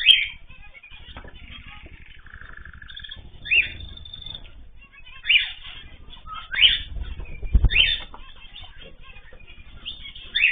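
Cage birds calling: about six short, loud, high calls spaced a second or two apart, over a low background rumble.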